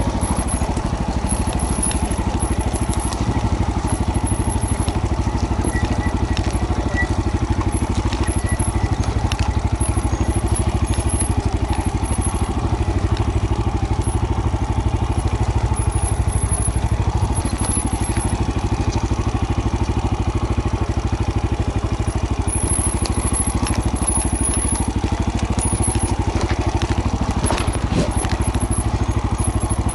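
Off-road motorcycle engine running steadily, with a brief knock near the end.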